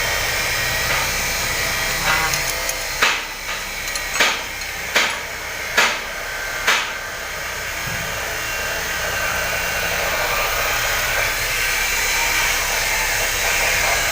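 Hand tools adjusting a rocker-arm valve-clearance screw on a Howo 336 diesel engine, giving about five sharp metallic clicks between three and seven seconds in. The adjustment tightens a loose intake valve clearance. A steady blower-like noise runs underneath throughout.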